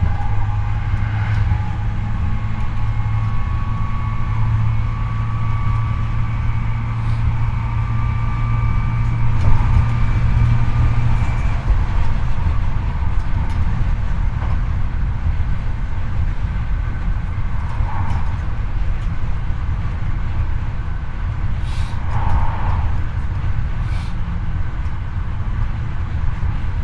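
Hankyu 8300 series electric train running, heard from the floor above a motor bogie. The Toyo IGBT-VVVF inverter and induction traction motors whine at a near-steady pitch with a low hum for about eleven seconds, then cut off as power is shut off. After that only wheels rolling on rail remain, with a few light knocks.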